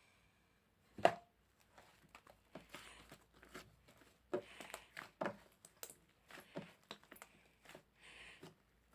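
Slime being squished, stretched and poked by hand: irregular sticky pops and crackles, the sharpest about a second in.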